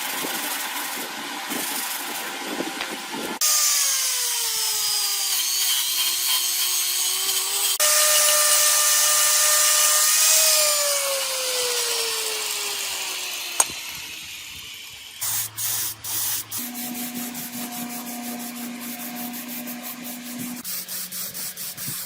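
A power tool working on the rusty gearbox metal, in several short cut-together clips. At least twice its motor winds down after being switched off, a falling whine.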